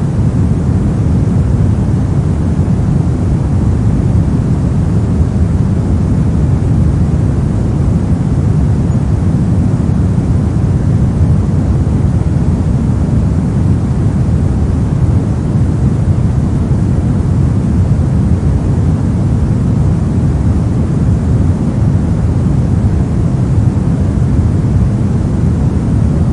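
Continuous synthetic pink noise: an even, unchanging rush of noise weighted toward the low end, with no pitch or rhythm.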